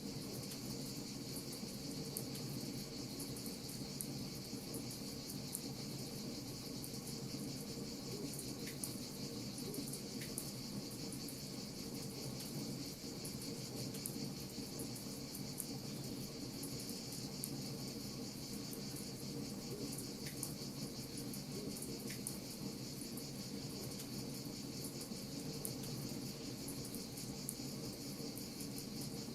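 Wood fire crackling with scattered small pops, over a steady high chirring like crickets and a low steady rush.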